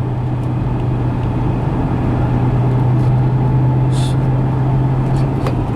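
Supercharged 4.6-litre V8 of a Saleen S281SC Mustang running at a steady cruise, heard from inside the cabin as an even, constant-pitch drone with road noise.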